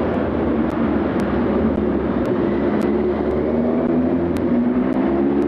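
A steady engine drone whose tones drift slowly in pitch, changing abruptly at the end.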